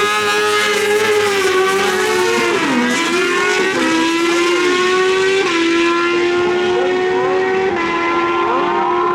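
Naturally aspirated stock drag motorcycles running at full throttle down the strip. The engine note drops sharply with each upshift, about three seconds in, again near the middle and again near the end.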